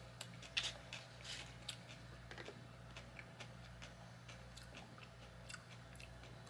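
A person chewing food with faint, irregular crunching clicks, denser in the first couple of seconds and sparser after.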